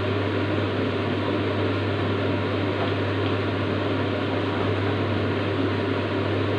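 Steady, even whirring noise with a low hum underneath, unchanging throughout, like a running fan or appliance at the stove.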